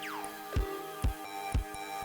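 Home-made electronic music from synths and drum machines: a synth tone sweeps quickly down in pitch at the start over a sustained chord-like drone, with bass-drum hits about twice a second.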